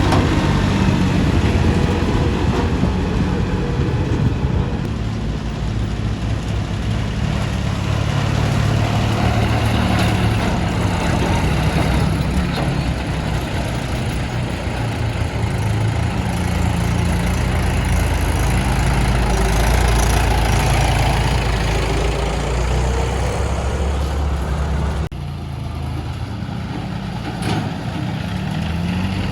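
Mini tractor diesel engine running steadily, its pitch shifting now and then; the sound changes abruptly about 25 seconds in.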